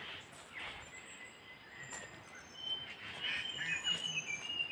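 Wild birds calling: thin high whistles come through now and then, and about halfway in a run of quick chattering notes starts and carries on to the end.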